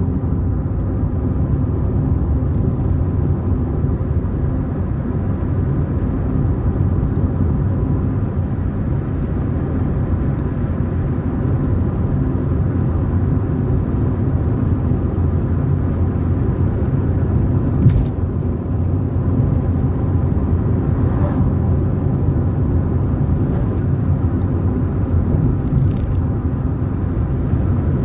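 A car driving along a road: steady low rumble of engine and tyre noise, with a single sharp knock about eighteen seconds in.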